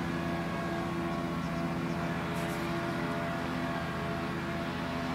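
An engine drones steadily at an even pitch, with a fast, fine pulse.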